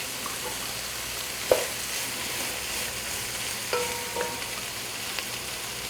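Chopped onions sizzling as they fry in hot oil, being stirred, with a few light knocks of the stirring utensil against the pan, one of which rings briefly.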